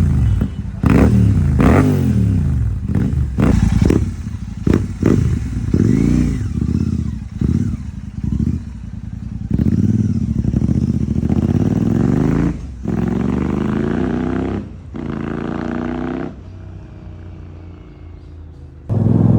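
Royal Enfield Super Meteor 650 parallel-twin engine, fitted with an aftermarket Rhino racing exhaust, revved in a string of quick, sharp throttle blips. It is then held at raised revs three times for a second or two each, drops to a quieter idle near the end, and revs up again right at the close.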